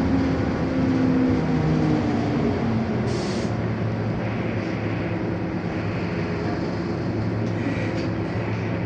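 Scania K230UB bus's five-cylinder diesel engine running, its pitch falling slightly in the first couple of seconds, then a steady rumble. A short hiss comes about three seconds in.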